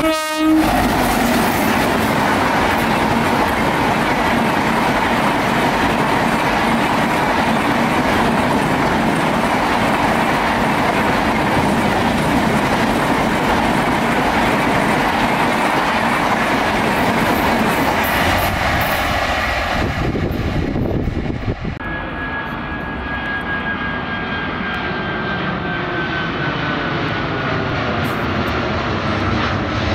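Electric-locomotive-hauled Indian Railways passenger train passing at speed, its coaches running by. About two-thirds of the way through it cuts to a jet airliner, an Airbus A330 freighter, climbing overhead with a steady whine slowly falling in pitch.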